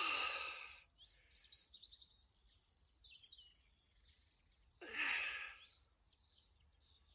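A man's heavy breathing as he exercises, with two loud breathy exhales: one at the start and one about five seconds in. Small birds chirp faintly between them.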